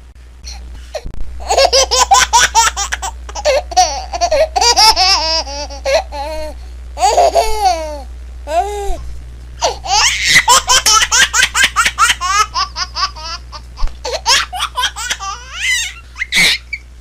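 A baby girl laughing in long runs of quick, high-pitched laughs, with short pauses between the runs.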